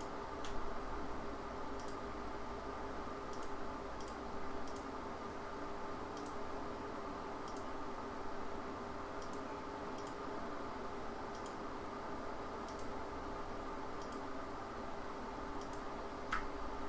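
Computer mouse clicking: scattered single clicks, roughly one every second or so at irregular spacing, over a steady background hum.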